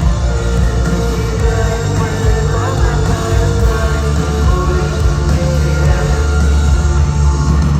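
Live rock band playing loud amplified music through a concert sound system, heavy on bass and drums.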